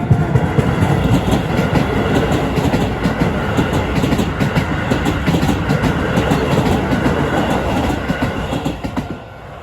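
Keisei electric train passing through a level crossing, its wheels clacking in a steady run over the rail joints. It dies away about nine seconds in as the last car clears.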